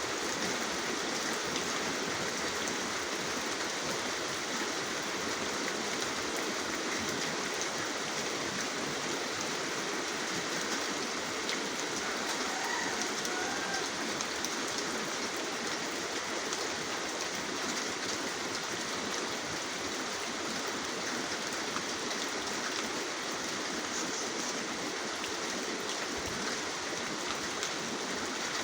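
Steady rain falling, an even, unbroken hiss of drops with no lulls or gusts.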